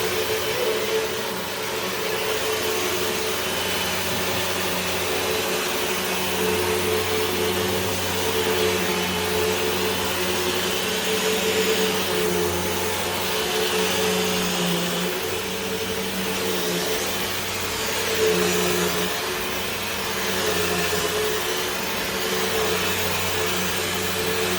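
Hoover WindTunnel 2 Whole House Rewind upright vacuum cleaner running with a steady motor hum and rush of air, its pitch dipping slightly now and then.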